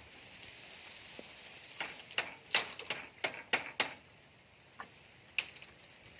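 A quick run of about seven sharp knocks or taps, then two more spaced out, over a steady high hiss.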